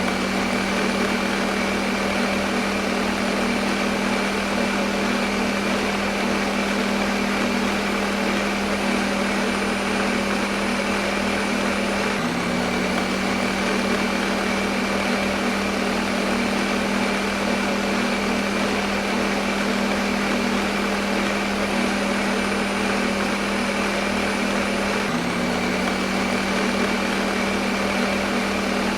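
Electric kitchen blender running continuously: a steady motor whir with a strong low hum over a broad hiss, the hum shifting slightly twice.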